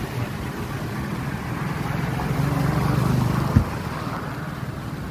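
A motor vehicle's engine passing in light rain, over a steady hiss. The engine hum grows louder past the middle, and there is a single sharp knock about three and a half seconds in.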